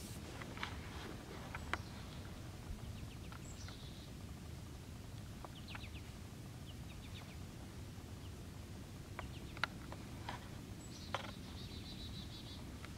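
Small birds calling: a few scattered chirps and two high calls that drop into a short buzzy trill, over a steady low rumble. A few sharp ticks stand out, the loudest about two-thirds of the way in.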